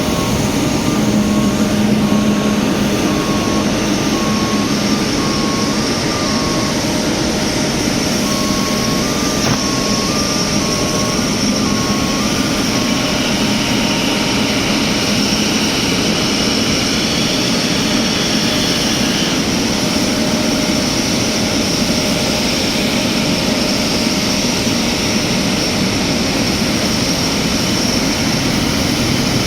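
Airbus A350-900 jet engines running steadily on the airliner's arrival. An alternating two-tone beep sounds through the first half.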